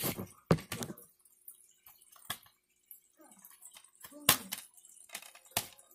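Several separate sharp clicks and taps of DVD packaging being handled, spaced a second or two apart, with quiet between.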